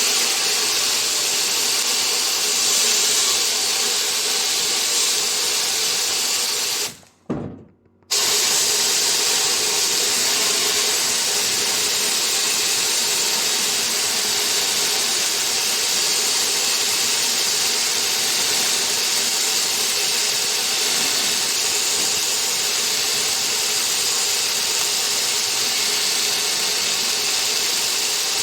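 Steady hissing power-tool noise from work on a brake caliper, with a short gap of about a second around seven seconds in.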